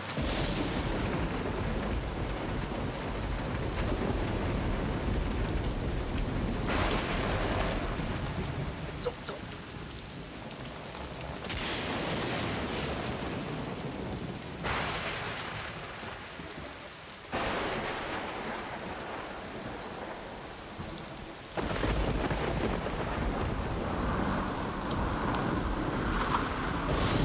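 Heavy rain pouring down steadily. Several rolls of thunder come in suddenly and fade away.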